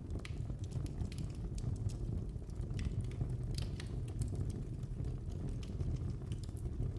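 Fire in a fireplace crackling, with irregular sharp pops over a steady low rumble of the flames.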